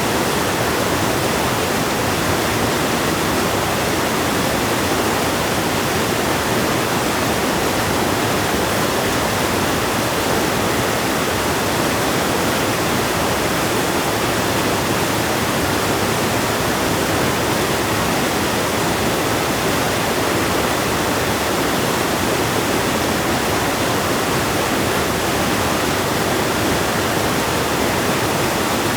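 River water rushing in a steady, unbroken roar of noise.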